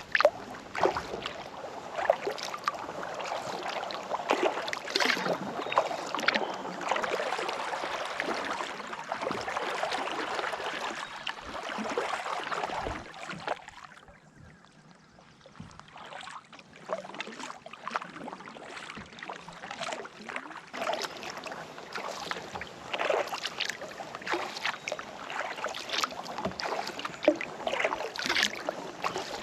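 Kayak paddling: the blades dip and splash, with water dripping and trickling off them between strokes. About halfway through the splashing drops off for a couple of seconds, then resumes.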